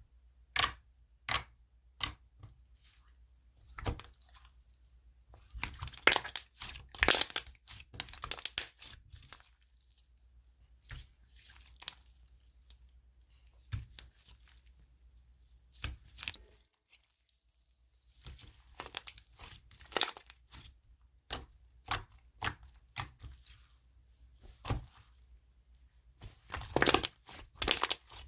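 Caprese cream slime being handled by hand: a few sharp clicks and pops, then bursts of crackling, snapping sounds as it is pressed, stretched and folded, with quiet pauses between.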